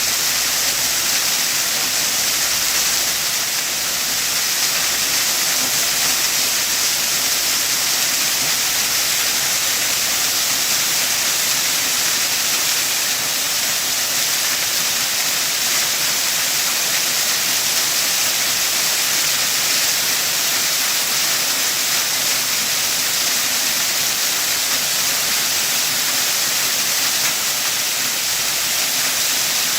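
Waterfall: a steady, even rush of falling water, strongest in the high hiss.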